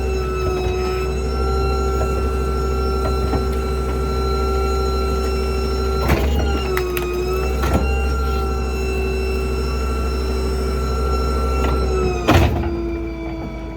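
The hydraulic packer of a New Way Diamondback rear-load garbage truck running with a steady whine, while dumped debris is crushed. Sharp cracks come about six and eight seconds in, and a loud crunch comes near the end, after which the whine drops in pitch.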